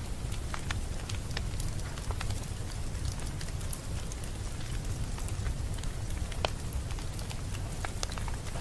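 Wood fire crackling: scattered sharp pops and snaps over a steady low rumble of flame.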